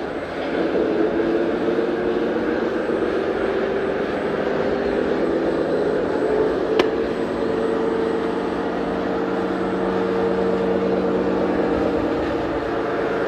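Radio-controlled model truck or machine running with a steady mechanical hum of several tones, shifting slightly in pitch partway through, and one sharp click about seven seconds in.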